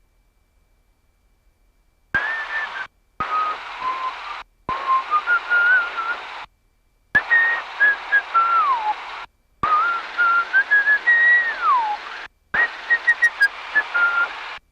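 A person whistling a tune over an aviation radio frequency: a wavering whistle heard through the radio's hiss, broken into about six transmissions with a click at each key-up. It starts about two seconds in.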